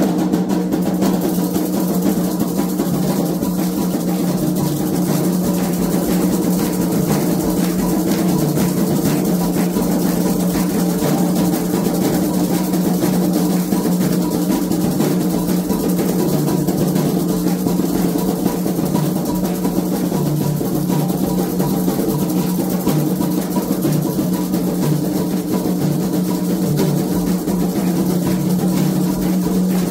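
Candomblé ritual drumming: hand drums played in a fast, unbroken rhythm with other percussion, music that keeps going without a break.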